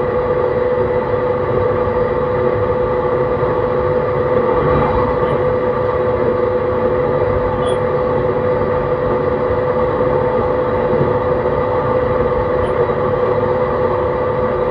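JR East E131 series 600-subseries electric train running at a steady speed: rolling noise with a steady, unchanging whine from its Hitachi hybrid SiC VVVF inverter and traction motors.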